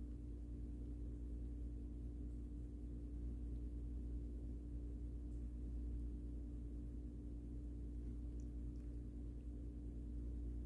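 Steady low hum with a constant mid-low tone over it, unchanging throughout: background room tone.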